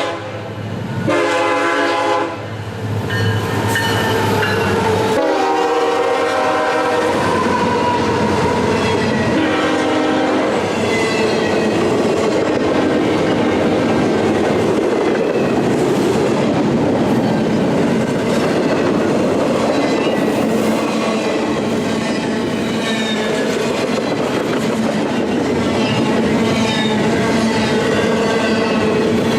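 Locomotive horn sounding a chord in separate blasts, a short one at the start and another about five seconds in. From about seven seconds on comes the steady rumble and clatter of the train passing close by, wheels clicking over the rail joints.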